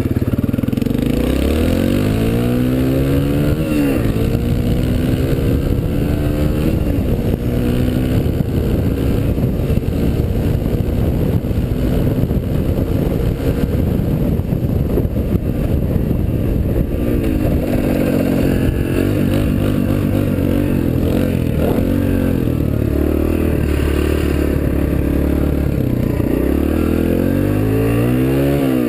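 Suzuki DR-Z125L dirt bike's single-cylinder four-stroke engine running under way, its pitch climbing under throttle and then dropping sharply several times as it shifts gear. Through the middle stretch the engine note is rougher and noisier.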